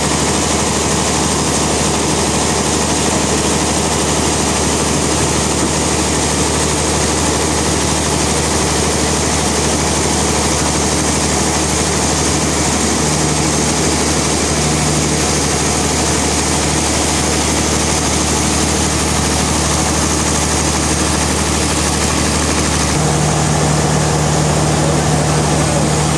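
Sawmill machinery running steadily: a constant low engine hum under a broad hiss. The hum shifts about halfway through and again near the end.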